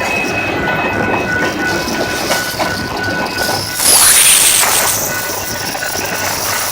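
Train rolling by, with wheel-on-rail noise and a thin steady high squeal. About four seconds in there is a short, louder surge with a squeal that falls sharply in pitch.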